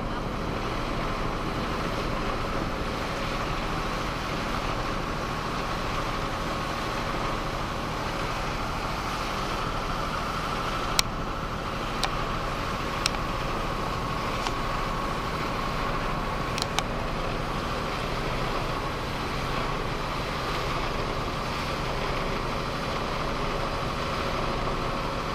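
Boat engine running steadily, a constant drone with a low rumble and a held whine. A few sharp clicks come about halfway through.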